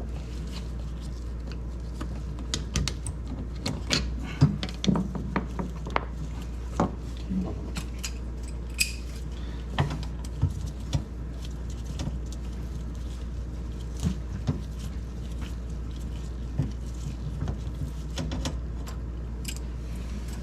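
Scattered small metallic clicks and clinks of tools and fittings as the water supply line is disconnected from a Sub-Zero refrigerator's water valve, busiest in the first half, over a steady low hum.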